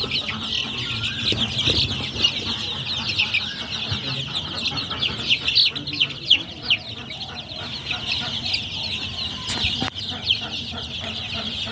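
A group of young chicks peeping continuously, many short high-pitched cheeps overlapping, with a few lower clucks beneath.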